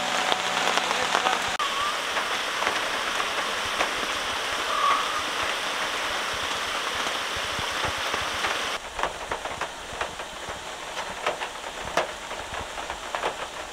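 Steady heavy rain falling. About nine seconds in it changes abruptly to quieter rain, with separate drops striking one by one.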